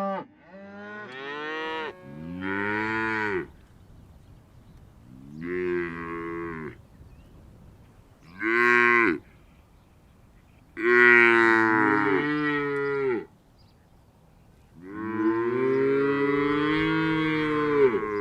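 Cows mooing, about six separate calls with short pauses between them. The calls last from under a second to about three seconds, and the last one is the longest.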